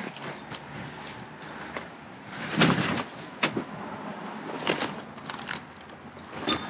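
Irregular knocks and clunks of junk being shifted and tugged at in a dumpster, with one louder clunk about two and a half seconds in.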